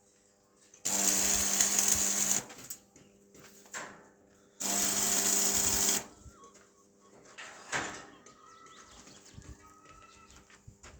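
A small power tool running in two short bursts of about a second and a half each, with a pause of about two seconds between them.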